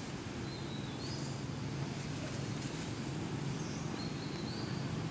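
A bird calling twice, about three seconds apart, each time a short, high two-note call stepping upward, over a steady low background rumble.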